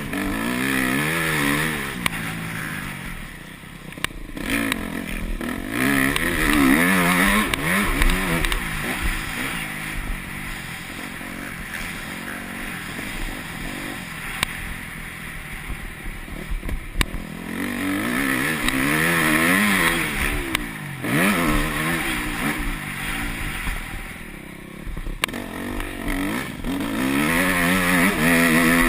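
Yamaha YZ250F four-stroke single-cylinder motocross engine revving hard and backing off again and again as it is ridden round the track, its pitch climbing and falling in repeated surges. Scattered sharp knocks from the bike run through it.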